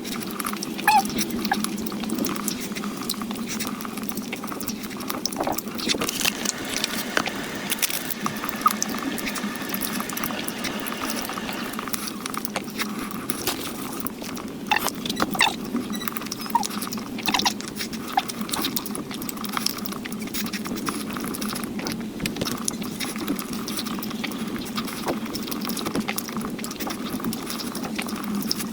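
Close-miked eating sounds: chewing with many short wet mouth clicks and smacks.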